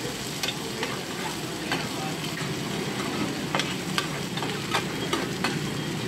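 Bột chiên (cubes of rice-flour cake) sizzling on a large black griddle pan while a metal ladle and spatula stir and scrape, clacking against the pan. The clacks come more often in the second half.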